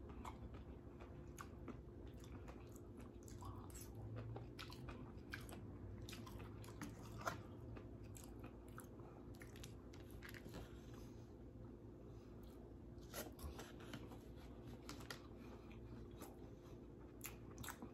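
A person chewing a mouthful of seaweed salad, with faint, irregular crunchy ticks.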